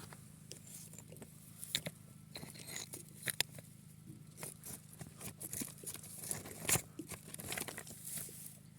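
Irregular clicks, crackles and rustling, with a few sharper cracks scattered through.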